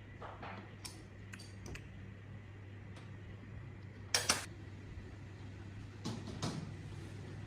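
Scattered light metallic clicks and knocks, as of small metal parts being handled and set down, the loudest a quick pair about four seconds in and another pair about two seconds later, over a steady low hum.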